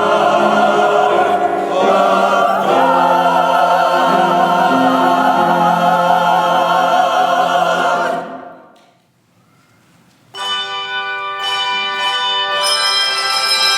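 Church choir singing a sustained chord that fades away about eight seconds in. After a brief hush, a chord of steady, bell-like ringing tones comes in suddenly near the end.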